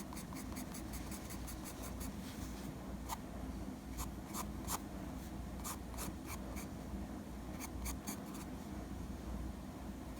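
Drawing strokes: a drawing tool scratching and tapping on a drawing surface in short, irregular strokes, over a steady low hum.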